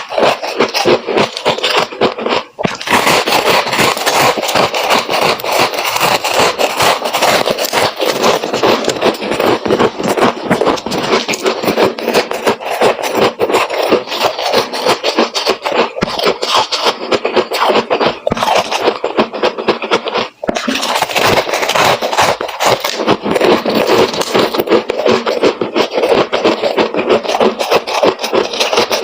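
Freezer frost being chewed close to the microphone: rapid, continuous crunching with two brief breaks, about two and a half seconds in and about twenty seconds in.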